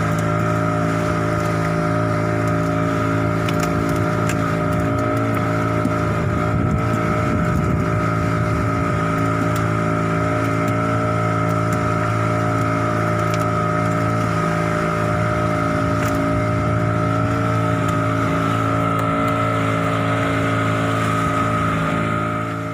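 Fishing boat's motor running steadily at an even speed, a constant hum with a high steady whine above it.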